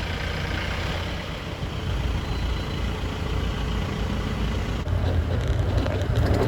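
Mahindra Bolero safari jeep driving, a steady engine and road rumble that grows louder about five seconds in, with wind buffeting the microphone toward the end.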